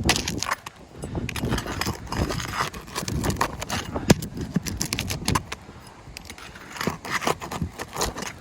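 Irregular metallic clinks, taps and scrapes of hand tools and nails being worked on a roof shingle during a repair, with a sharper knock about four seconds in.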